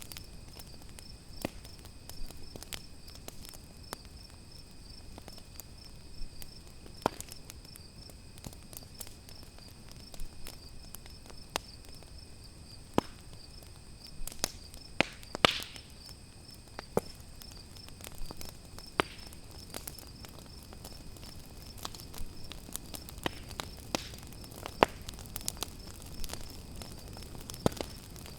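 Campfire crackling with irregular sharp pops, a louder pop about halfway through, over the steady high trill of crickets.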